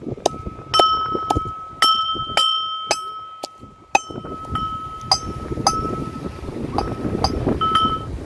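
A utensil repeatedly knocking and clinking against a metal cooking pot, about fifteen irregular strikes, each leaving the pot ringing with a clear tone.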